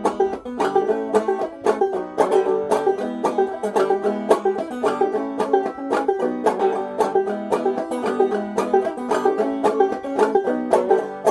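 Clawhammer banjo playing an instrumental break: a quick, steady run of plucked notes with no singing.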